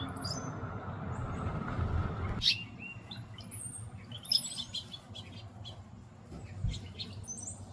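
Small songbirds chirping: many short, high chirps and whistled notes. In the first two and a half seconds a steady low rushing noise runs under them and then cuts off abruptly.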